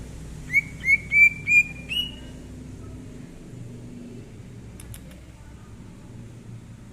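Green leafbird (cucak ijo) singing a quick phrase of five clear whistled notes, each sliding up in pitch, the last one higher and held a little longer. A steady low rumble runs underneath.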